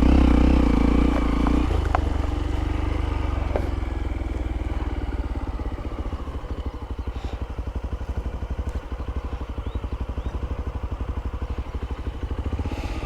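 Hero Impulse motorcycle's single-cylinder engine revs up briefly, then runs at low revs with an even, rapid beat. A couple of light clicks come about two and three and a half seconds in.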